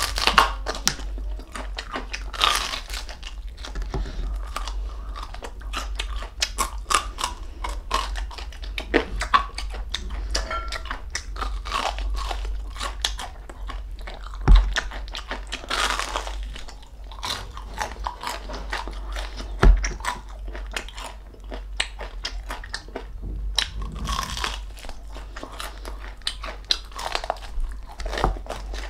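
Close-up biting, crunching and chewing of deep-fried crispy pork knuckle (crispy pata), with its crackly skin breaking into many small crunches. Two dull thumps, about 15 and 20 seconds in, are the loudest sounds.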